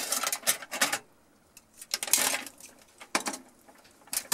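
Kitchen tongs clicking and scraping against an aluminum-foil pan while turning chicken legs, in several short bouts of clatter with pauses between.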